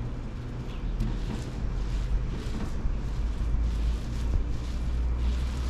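Wind buffeting the microphone outdoors: an uneven low rumble that swells and eases, with a faint hiss above it.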